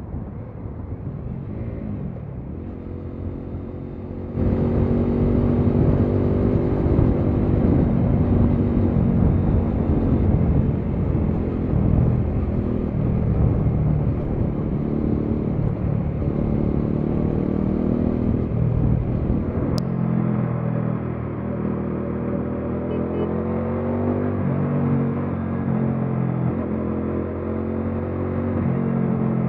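Bajaj Dominar 400 motorcycle's single-cylinder engine running on the move, its pitch rising and falling as the throttle opens and closes. It gets suddenly louder about four seconds in, and the sound changes abruptly about two-thirds of the way through.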